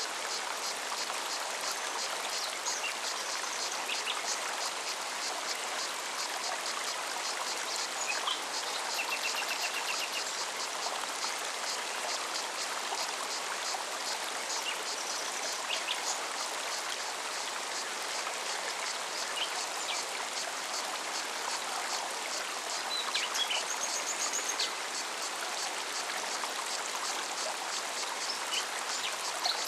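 Forest stream running steadily, overlaid with a cicada's rapid, evenly pulsing song and short bird chirps now and then.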